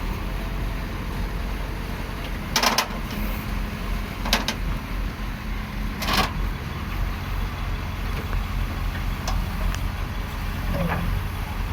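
Heavy vehicle engine running steadily, with three sharp knocks between about two and a half and six seconds in.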